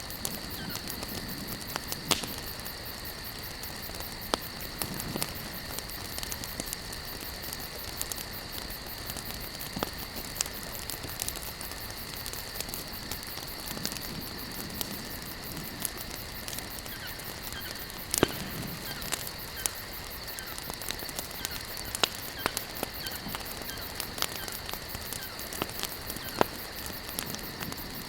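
Campfire burning, with wood crackling and snapping in sharp, irregular pops, the loudest about two-thirds of the way through, over a soft steady hiss. Crickets chirr steadily behind it.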